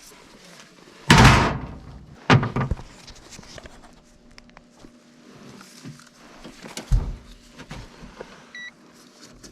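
Sheet-metal blower access door of a York gas furnace being taken off: a loud metallic thunk about a second in, another knock soon after, and a smaller knock near the end, with handling scrapes between.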